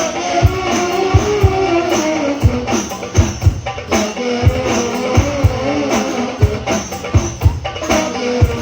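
Hadroh ensemble playing: rebana frame drums and a deep bass drum beating a steady repeating rhythm, with jingles and sharp hand strikes, under a wavering melody line.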